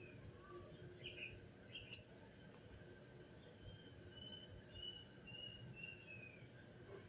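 Faint outdoor background noise with a small bird chirping: a couple of short high chirps, then a run of short, slightly falling chirps about twice a second through the second half.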